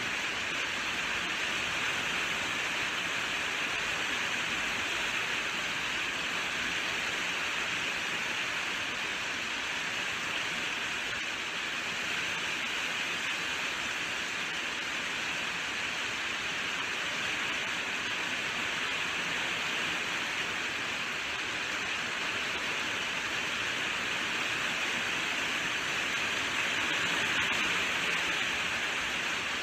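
Steady, even rainfall with a dense hiss, no distinct drops or thunder.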